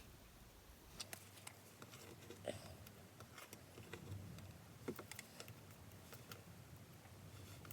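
Faint, irregular light taps of a fine-liner pen tip dotting onto card stock.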